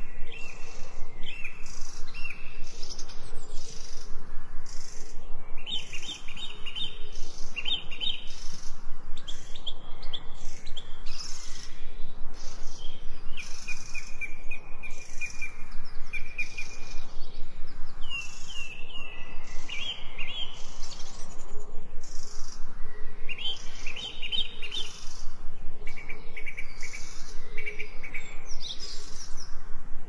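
Songbirds singing short chirping phrases every few seconds over a steady, rapidly pulsing high-pitched background noise.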